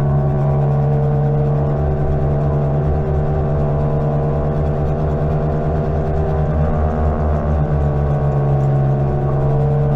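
Greenworks 60V electric mini bike's electric motor running steadily under way, a constant whining hum over low rumble.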